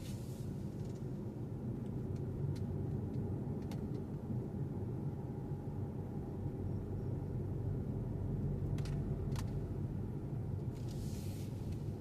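Steady low rumble of a car driving on the road, with a few faint ticks and a brief hiss about eleven seconds in.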